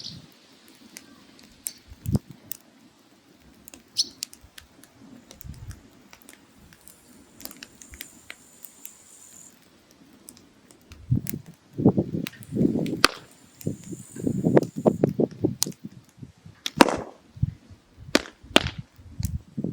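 Firewood burning in a mangal (grill), crackling with sharp pops scattered throughout. The second half is busier, with dense runs of crackling and low knocks.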